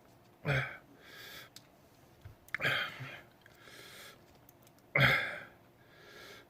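A man breathing hard through his mouth after eating a superhot chili pepper: three sharp, hissing exhales about two seconds apart, with softer breaths in between, as he reacts to the burn.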